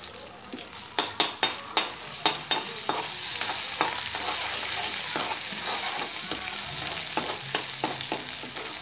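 Crushed ginger frying in hot oil in a kadhai, sizzling and growing louder after the first couple of seconds. A metal perforated spatula stirs it, clicking and scraping against the pan.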